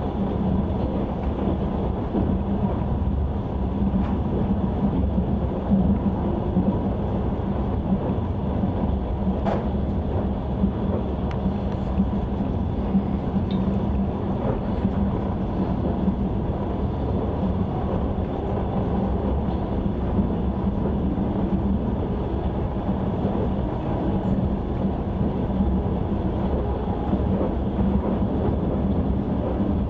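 Passenger train running at speed, a steady rumble of wheels on rails heard from aboard the carriage. One sharp click comes about nine and a half seconds in.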